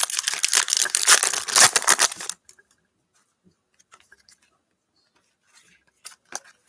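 A trading-card pack wrapper being torn open and crinkled for about two seconds, then a few faint ticks and clicks of cards being handled.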